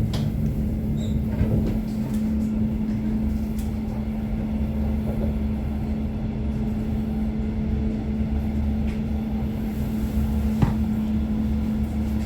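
Passenger train running, heard from inside the carriage: a steady low rumble with a constant hum, and a single sharp click about ten seconds in.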